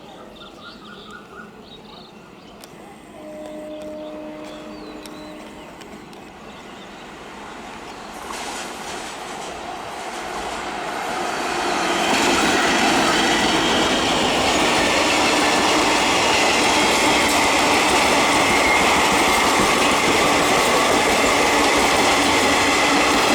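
Indian Railways EMU local train approaching and running past: a rushing rumble of wheels on rail that builds from about eight seconds in and stays loud and steady, with clickety-clack and a high ringing squeal over it. A brief steady tone sounds about three seconds in, before the train is close.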